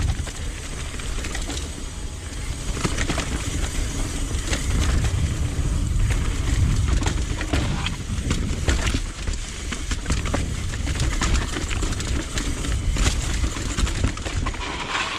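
Mountain bike riding down a rough trail: wind buffeting the camera microphone as a steady low rumble, with tyre noise and many short clicks and rattles from the bike going over the ground.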